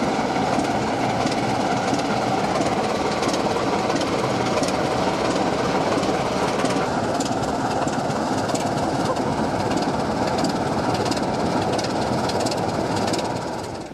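OO gauge model diesel locomotive running along the track: a steady rumbling running noise with a regular click of the wheels over the rail joints, fading away near the end.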